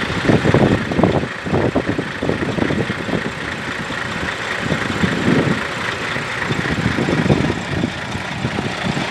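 Heavy truck's diesel engine running, an uneven, pulsing rumble.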